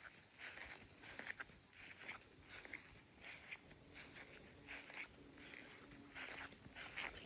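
Insects trilling in one steady, high continuous tone, with footsteps swishing through grass about twice a second.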